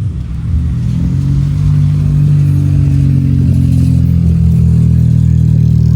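Opel Corsa B engine and exhaust pulling up in revs over the first couple of seconds, then holding a steady drone.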